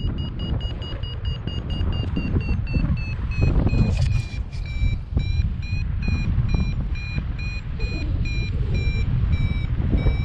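Paragliding variometer beeping rapidly, about four short beeps a second: the climb tone of a glider rising in a thermal. The beeps dip slightly in pitch about four seconds in, over heavy wind buffeting on the microphone.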